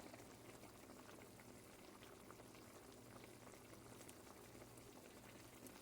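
Faint bubbling of a pot of chicken and vegetable soup coming up to a boil, with a low steady hum underneath.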